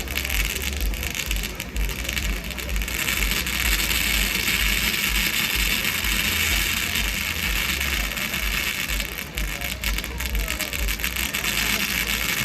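Two ground firework fountains ('1000 Kristalle' by Funke) spraying with a steady, loud hiss, over a fluttering low rumble.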